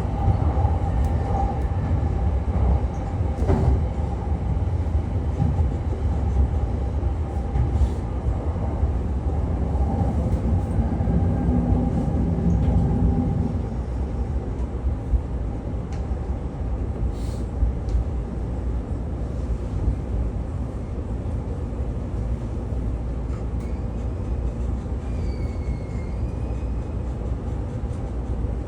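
Running noise inside a JR East commuter train car: a steady low rumble of the train moving along the rails, easing slightly about halfway through. A few faint high squeals near the end.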